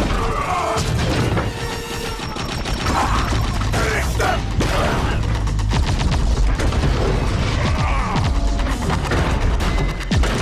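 Sci-fi battle sound effects: robotic mechanical clanking and whirring with booms and bursts of blaster fire, over a film score.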